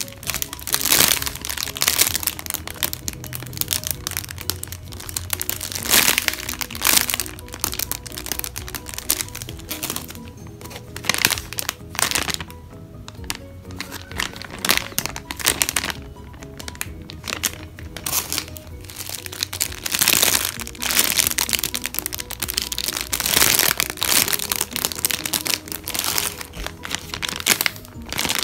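Crinkling and crackling of plastic packaging as squishy toys are handled, in repeated bursts over steady background music.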